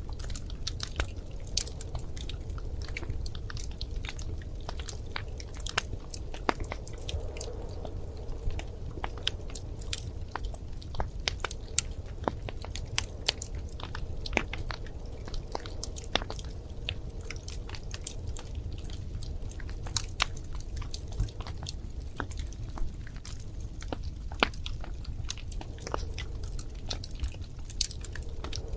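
Wood fire crackling in a fireplace: a steady low rumble of flame with many irregular sharp crackles and occasional louder pops.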